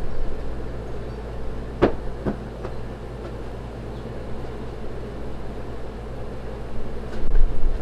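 Pit Boss 1150 pellet grill starting up in the cold, its fan running with a steady hum. Two sharp clicks come about two seconds in.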